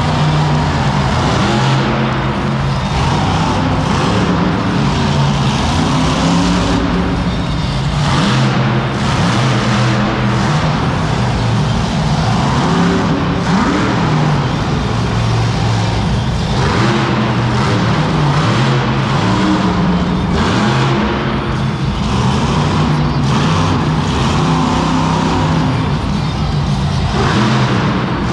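Monster truck engine running loud and continuous, its pitch repeatedly rising and falling as it is revved.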